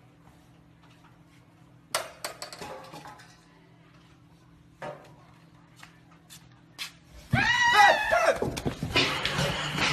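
A few sharp knocks and clatters over a low hum, then about seven seconds in a loud person's cry that rises and falls for about a second, followed by loud commotion.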